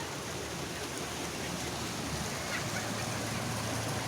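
Steady rushing noise, like flowing water or wind, with a faint low hum coming in about halfway through.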